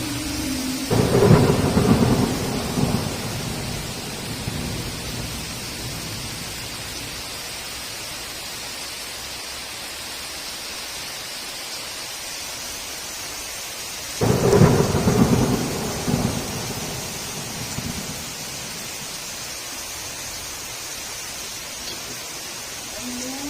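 Heavy rain hissing steadily, broken by two claps of thunder, one about a second in and one about fourteen seconds in. Each starts suddenly and rumbles away over two or three seconds.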